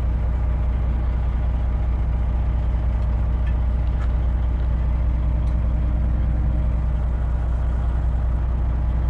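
Semi-truck's diesel engine running steadily on the move, a constant low drone.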